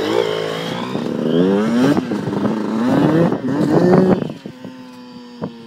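A 125cc pit bike's single-cylinder engine is revved up and let fall back several times, then drops to a steady idle about four seconds in.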